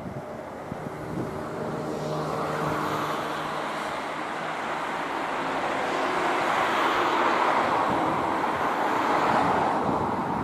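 A passing vehicle: a rushing noise that swells about two seconds in and stays loud, with faint low hum early on.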